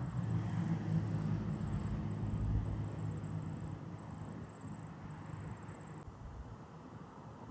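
A heavy truck driving past, its engine note loudest about two and a half seconds in and then fading as it moves away.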